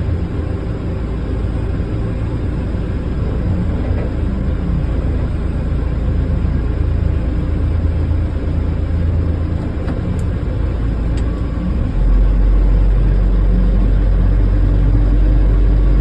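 Steady low rumble of an Airbus A320 and its ground equipment during pushback and engine start. The deep rumble jumps up suddenly about twelve seconds in and stays louder.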